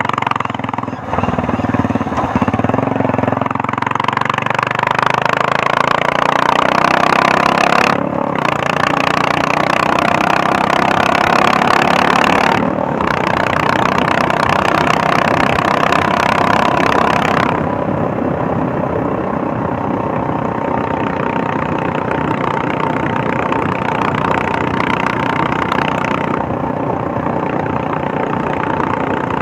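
Royal Enfield Meteor 350's single-cylinder engine and exhaust under way. It picks up speed with the pitch rising and dips briefly twice, as at gear changes. About halfway through it eases off to a steady cruise.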